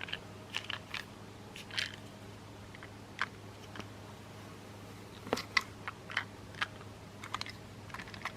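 Light, irregular plastic clicks and taps from small plastic toy train pieces being handled, over a faint steady hum.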